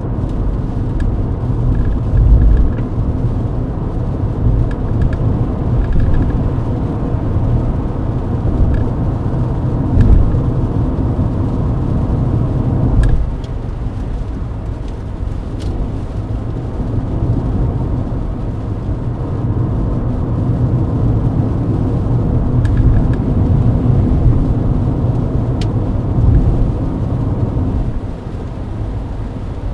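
Steady low road and engine noise heard inside the cabin of a Mercedes-Benz W124 cruising on a highway in the rain, swelling briefly a few times.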